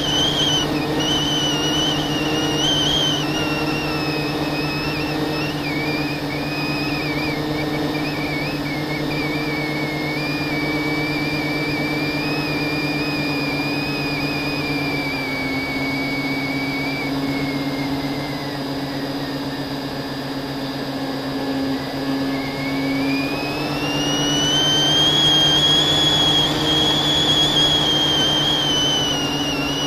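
FPV quadcopter's brushless motors whining over a steady low hum. The pitch sinks slowly through the first two-thirds, then climbs again near the end as the throttle comes up.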